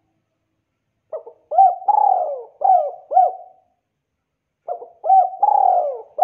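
Spotted dove (tekukur) cooing: two phrases of several coos each, the first starting about a second in and the second just after the middle.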